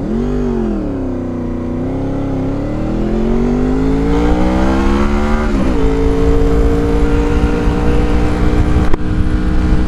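Honda VFR motorcycle's V4 engine under acceleration, heard from on the bike with wind noise: it revs up sharply at first, dips, then climbs steadily in pitch for a few seconds. About halfway through the pitch drops suddenly at a gear change, and the engine then holds a steady pitch.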